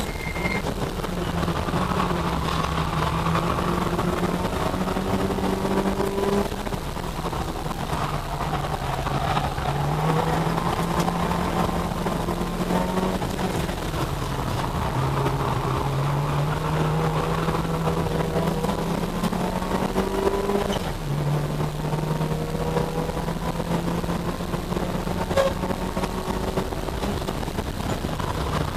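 A small four-cylinder hatchback's engine heard from inside its cabin while it is driven hard on a circuit. The engine note climbs as the car accelerates and drops sharply a few times as it shifts gear or lifts off for the bends.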